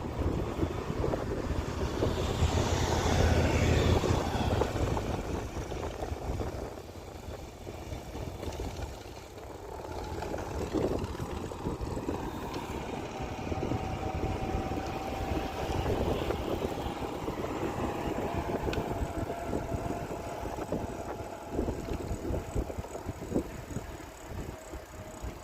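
Riding a bicycle: wind buffeting the microphone and tyres rolling on the path, loudest a couple of seconds in. From about ten seconds in, a faint steady hum slowly sinks in pitch.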